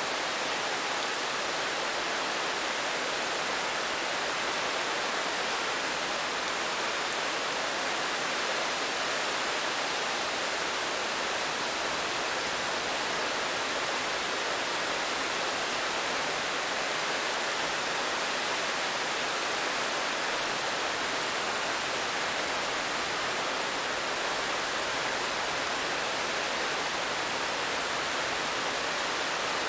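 Steady rain, heard as an even, unbroken hiss with no separate drops or gusts standing out.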